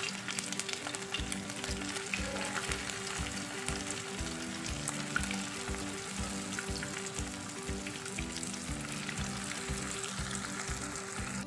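Spring rolls shallow-frying in a pan of hot oil: a steady sizzle dotted with small crackling pops. Background music with low sustained notes and a regular beat plays underneath.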